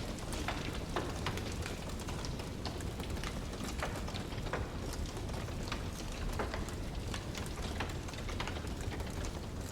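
Wood fire burning in a fireplace: logs crackling with irregular sharp pops and snaps over a steady low rush of flame.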